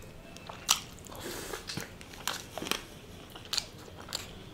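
Close-miked chewing and biting of tandoori chicken: irregular soft mouth clicks and smacks.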